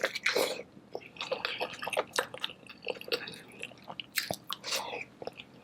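Close-miked chewing and biting of a saucy seafood boil: irregular wet mouth smacks and small crunchy clicks, with louder bites near the start, about two seconds in and again around four seconds in.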